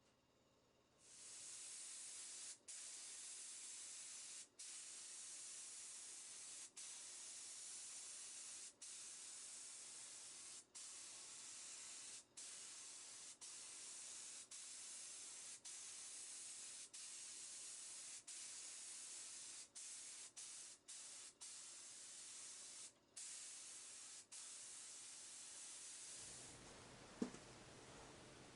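A steady spraying hiss, as from a spray nozzle, cut by many short pauses every second or two and stopping a couple of seconds before the end. A single sharp click follows near the end.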